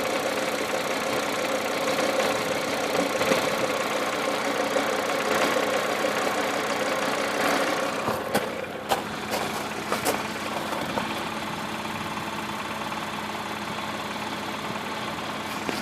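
Audi RS3's turbocharged 2.5-litre five-cylinder engine idling steadily with the gearbox in park or neutral. About eight seconds in it drops a little in level, and a few sharp clicks sound over the next two seconds.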